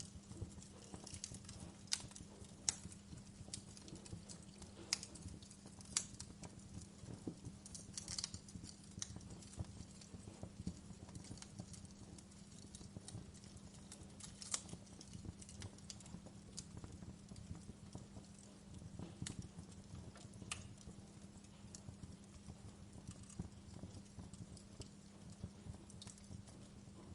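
Burning wood fire crackling, with irregular sharp pops and snaps, a few louder than the rest, over a faint steady low hum.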